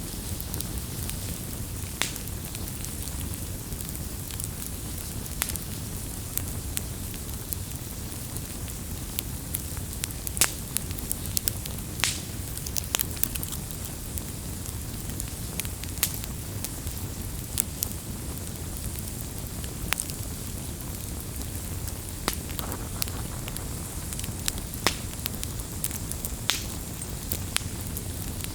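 Campfire burning: a steady low rumble and hiss of the flames with irregular sharp crackles and pops of the burning wood, a few louder snaps scattered through.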